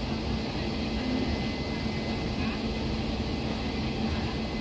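Kosi Express passenger train pulling slowly out of the station: a steady rumble of its coaches rolling on the rails, with a steady low hum running through it.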